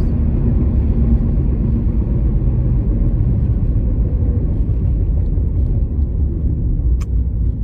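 Steady low rumble of a car's engine and road noise heard from inside the cabin, with a single sharp click about seven seconds in.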